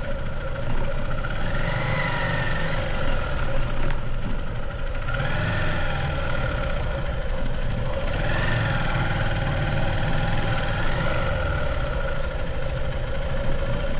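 Motorbike engine running at low speed while riding, its pitch rising and falling briefly a few times as the throttle is worked.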